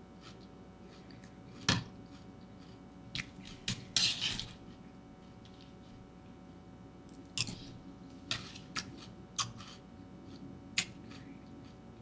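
Spoon knocking and clinking against a cereal bowl in several separate sharp clicks, with a short burst of crunching or rustling about four seconds in.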